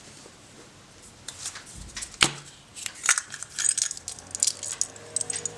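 Small hard plastic clicks and rattles from handling a Kinder Surprise egg's plastic capsule and toy pieces. One sharp click comes about two seconds in, and a run of quick light clicks follows in the second half.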